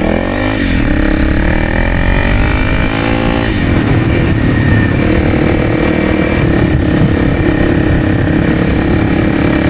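Honda CRF300's single-cylinder engine pulling under throttle: revs climb for about three and a half seconds, drop sharply as it shifts up a gear, then hold steady.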